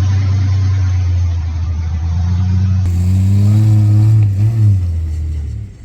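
Off-road 4x4's engine working under load, revving up with its pitch rising from about two seconds in, then easing off and dropping away near the end.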